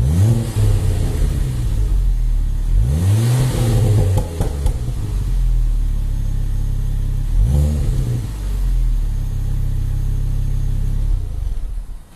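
Ford Focus ST engine through a Mountune cat-back exhaust, running between three quick revs from idle, each rising and falling back, with a brief hiss alongside the second. The engine stops just before the end.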